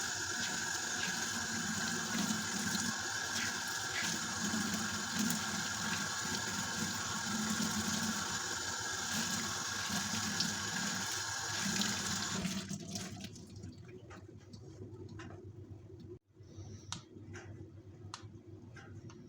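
Tap water running into a sink, shut off about two-thirds of the way through, followed by a few light clicks and knocks.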